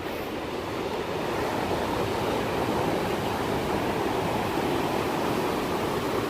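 Ocean surf washing in a steady rush, swelling slightly about a second in.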